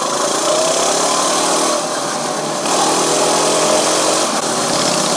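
Coleman minibike's small single-cylinder four-stroke engine running under way, its pitch climbing twice as it picks up speed, with wind hiss on the microphone.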